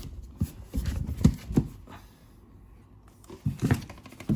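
Cardboard packaging being handled and opened: a series of short, dull knocks and rubs in two clusters with a quieter gap between.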